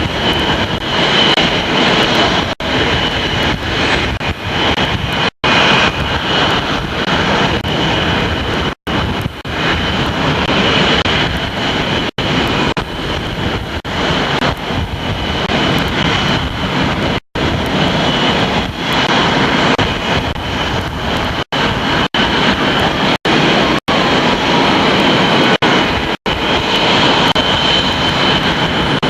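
Loud aircraft engine noise with a steady high whine running through it. Several brief, sudden cuts of the sound come from VHS tape dropouts.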